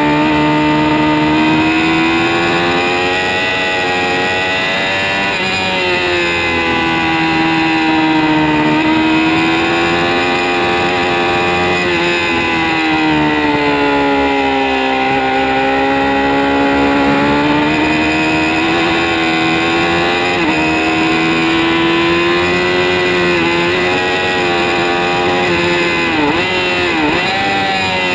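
2006 Kawasaki ZX-6R (636) inline-four engine running hard at high revs. Its pitch rises and falls slowly over several seconds, with a few quick sharp dips in pitch near the end.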